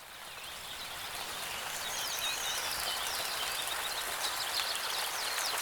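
Steady rain falling, fading in over the first couple of seconds, with birds chirping over it.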